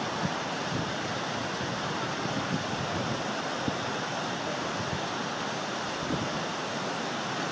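Strong wind blowing, a steady rushing noise with irregular low rumbles as gusts buffet the microphone.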